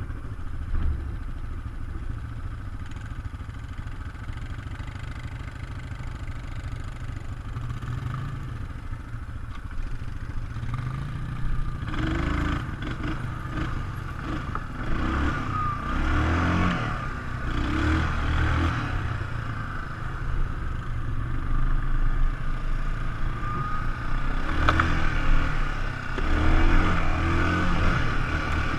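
ATV engine running under way. It is steady at first, then from about halfway it revs up and down over and over as the throttle is worked.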